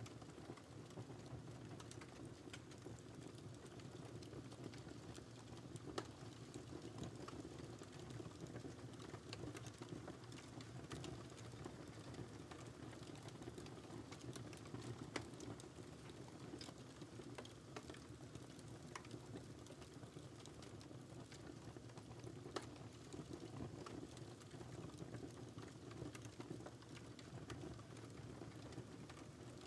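Wood fire in a fireplace crackling steadily and faintly, with many small pops and a few louder snaps over a soft low hiss of the flames.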